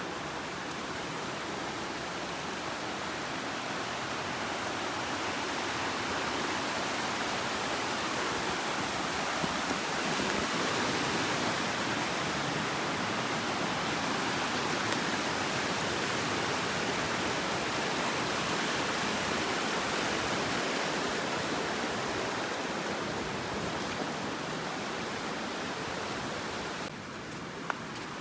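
Goldstream River rushing, a steady even wash of moving water with no breaks. The level drops a little near the end.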